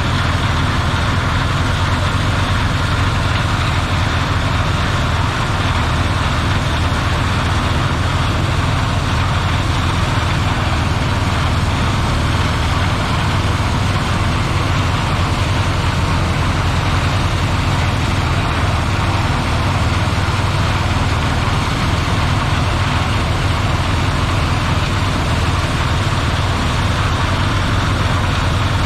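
Claas Lexion 740 combine harvester running steadily, a constant deep engine drone with a broad mechanical hum over it.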